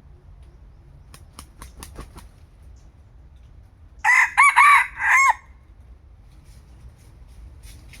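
A red junglefowl rooster crows once, loudly, in a short broken crow of three or four notes lasting about a second and a half. A run of sharp clicks comes a couple of seconds before it.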